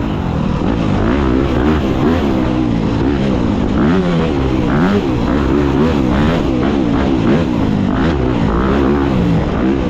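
Dirt bike engine under constant throttle changes, its pitch rising and falling again and again as it revs up and drops back.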